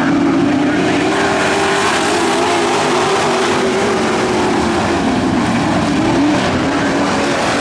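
Pro truck race field running on a dirt oval, engines at high revs, the pitch wavering as the trucks go round, dipping about five seconds in and climbing again.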